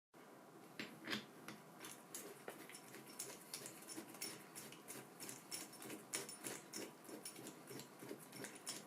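Many quick, irregular light clicks, taps and scratches of small hard parts being handled and worked on by hand.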